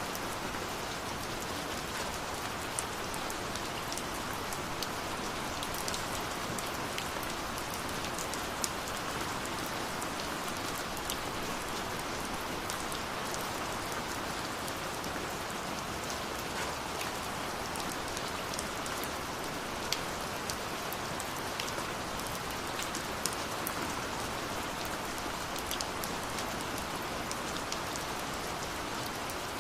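Steady rush of falling water from a waterfall, with scattered sharp crackles and pops of a burning wood fire over it.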